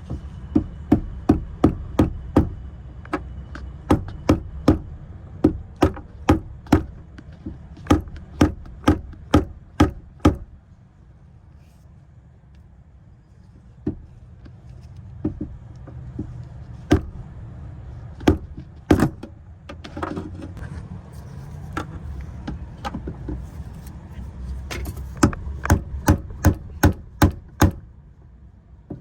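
Hammer tapping in runs of quick, sharp strikes, about two a second, with a few seconds' pause partway through, over a low steady rumble.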